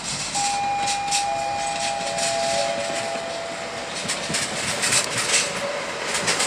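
Slovenian Railways electric multiple unit rolling slowly past, wheels clicking over rail joints, with a steady two-note metallic squeal lasting about three seconds soon after the start.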